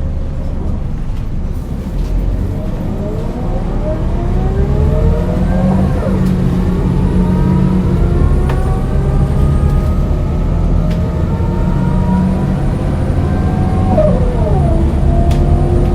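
Scania DC9 9-litre six-cylinder diesel bus engine pulling away from rest through a ZF 4HP-500 automatic gearbox. The revs climb steadily, drop sharply at an upshift about six seconds in, climb again, and drop at a second gear change near the end.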